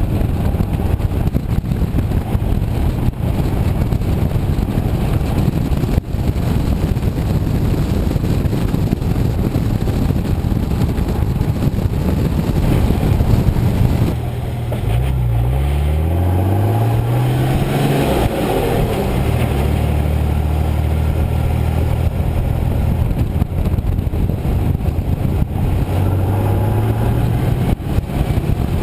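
Nissan Patrol 4.2-litre TD42 diesel straight-six heard through a 3-inch mandrel-bent exhaust with a vortex muffler. A rough, steady rumble runs for about half the clip. Then the engine is revved up and back down, settles to a steady idle, and is blipped once more near the end.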